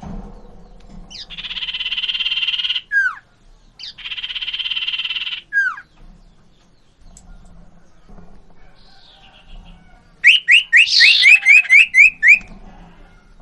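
Common iora (cipoh) calling: two long buzzy, rasping calls, each ending in a quick downward-sliding note, then after a pause a fast run of about ten short rising whistled notes.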